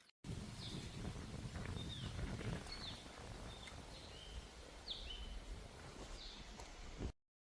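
Steady rushing of a mountain stream, heaviest in the low end, with a bird repeating short down-slurred chirps about once a second. It cuts off abruptly near the end.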